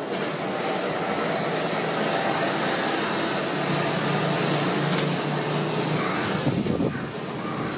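Steady roar of a jet airliner's engines mixed with gusty typhoon wind noise on the microphone.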